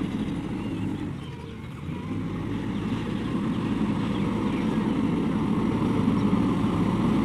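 Heavy diesel machinery engine running, dipping briefly about a second in, then steadily growing louder as it works or draws closer.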